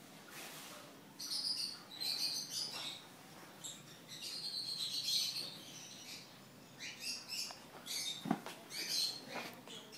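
Small birds chirping in repeated quick clusters, with a single knock a little past eight seconds in.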